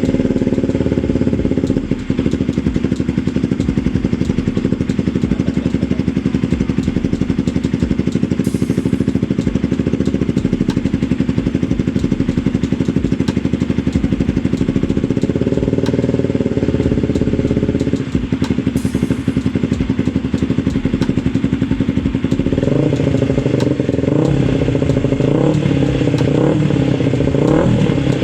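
Honda CB150R's single-cylinder engine running at a steady idle through a WRX GP3 K2 aftermarket exhaust; from about 22 seconds in the throttle is blipped in short revs.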